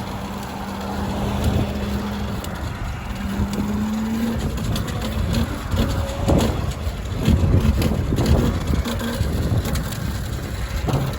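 Car engine running nearby, a steady hum that rises a little about four seconds in, over wind and street noise.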